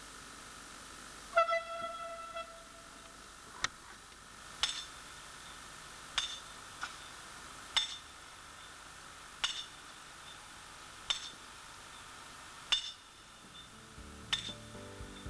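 Diesel railcar sounding one short horn note about a second and a half in, the note fading away. After it come sharp metallic clicks every second or so as the wheels roll slowly over the rail joints and points.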